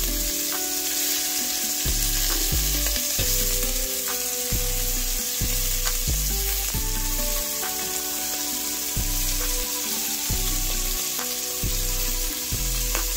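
Shrimp sizzling steadily as they fry in hot avocado oil in a stainless steel pot, being turned over with metal tongs. Background music with a steady beat runs underneath.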